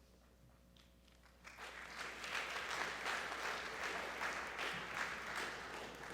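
An audience clapping, starting about a second and a half in and tapering off near the end.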